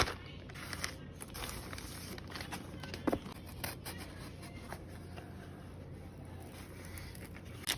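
Faint handling of packaging during an unboxing: soft scrapes, rustles and light taps, with a sharper click about three seconds in and another near the end.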